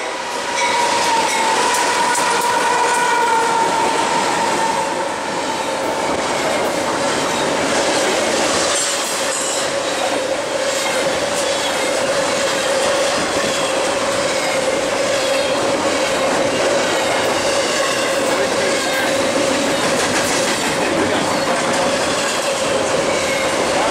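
BNSF double-stack container freight train passing close by: the locomotives go by first, then a long string of stack cars with the wheels running on the rails. A steady tone sounds over the noise and drops to a lower pitch about five seconds in.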